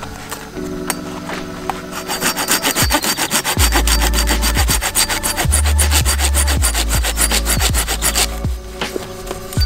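Rapid, even sawing or rasping strokes, several a second, starting about two seconds in and stopping shortly before the end, over quiet background music.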